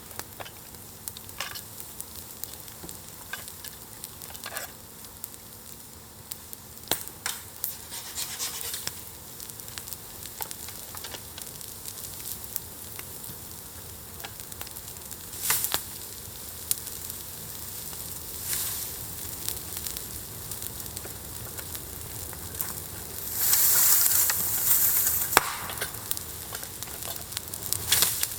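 Bonfire crackling, with frequent sharp pops over a steady hiss, and a louder rushing hiss for about two seconds near the end.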